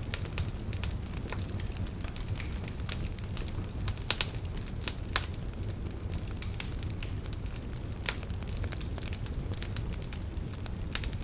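Wood campfire burning, with irregular sharp crackles and pops over a steady low rumble of the flames; a burst of louder pops about four seconds in.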